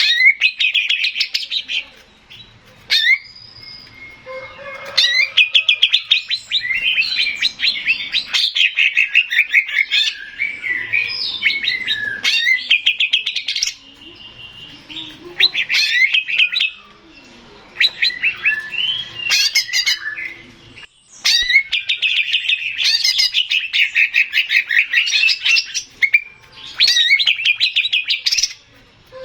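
Male greater green leafbird (cucak ijo) singing: long bursts of fast, trilling, chattering phrases, high-pitched, with brief pauses between bursts.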